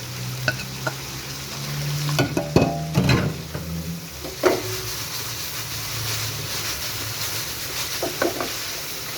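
Chicken frying in oil sizzles steadily in a pan as broccoli is added and stirred in. A spatula knocks and scrapes against the pan in a cluster about two to three seconds in, again about four and a half seconds in, and briefly near the end.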